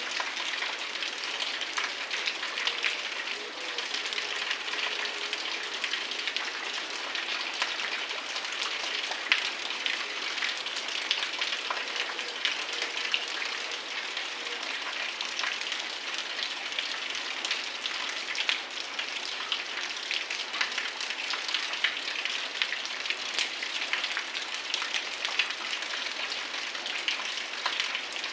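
Heavy rain falling steadily, a dense patter of countless drops hitting the ground and nearby surfaces.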